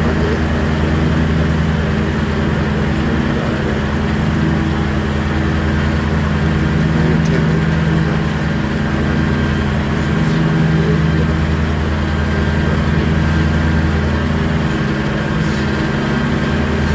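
John Deere tractor engine running at a steady speed, an even low drone with no change in pitch.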